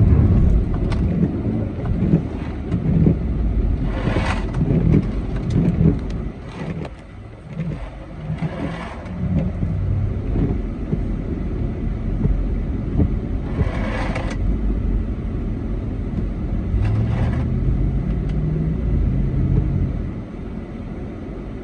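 2009 Jeep Commander's 5.7 Hemi V8 running and revving on a snowy road with traction control off, heard from inside the cabin. The engine pitch climbs once late on, and several short hissing swishes pass over it.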